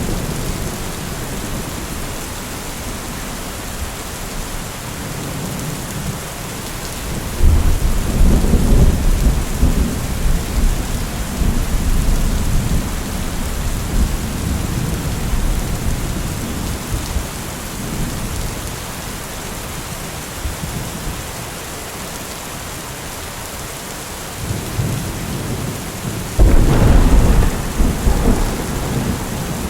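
Steady rain falling, with two loud low rolls of thunder: one about a quarter of the way in that fades away over several seconds, and another near the end.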